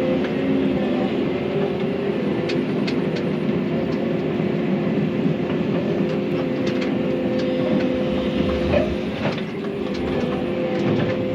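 Excavator running steadily, engine drone with a constant whine and scattered clanks and rattles from the machine at work.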